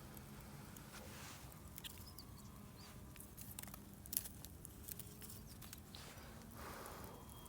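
Faint crackling of a wood campfire: scattered sharp pops and ticks, one louder pop about four seconds in.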